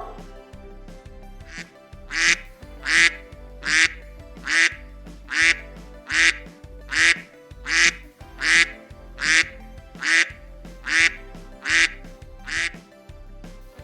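A quick, even series of short animal calls, about fifteen in all, over soft background music.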